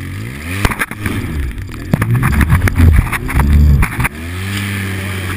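A trial motorcycle's small engine is blipped and revved in repeated bursts, with several sharp knocks and clatters mixed in between them, as the bike works over an obstacle. Just after four seconds in it settles to a steady, even running pitch.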